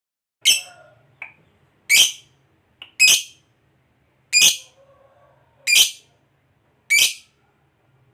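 Lovebird giving short, shrill, harsh calls, six in a row about a second apart, with a couple of fainter chips between them.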